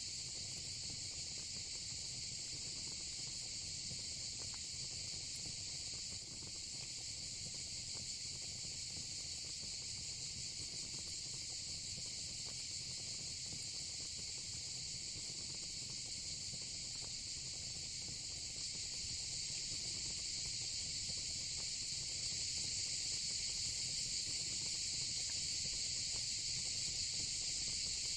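A steady, high-pitched chorus of insects, with a low hiss and occasional faint crackles from a gas or wood fire pit beneath it.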